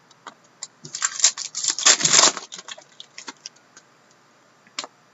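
Trading cards being handled and flipped from a pack: a run of small clicks and taps, with a denser, louder rustling scrape of card on card about one to two and a half seconds in.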